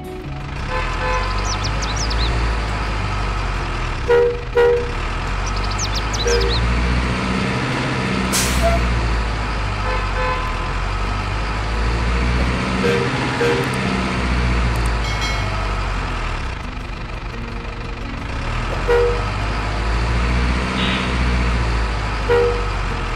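Heavy truck engine sound running and revving in slow waves, with a sharp air-brake hiss about eight seconds in and several short paired beeps.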